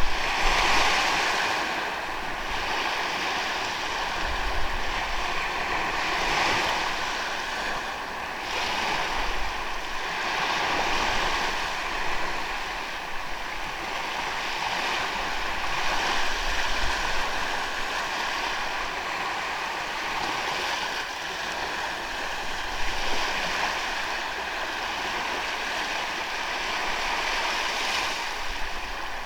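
Surf on a sandy beach: waves breaking and washing in, the rush swelling and easing every few seconds.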